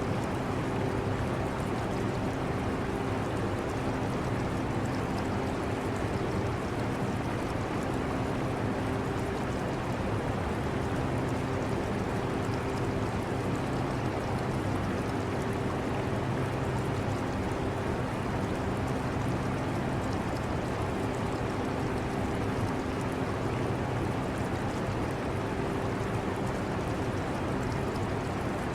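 Portable air conditioner running with a steady hum and rush of air, mixed with the trickle of water from an aquarium.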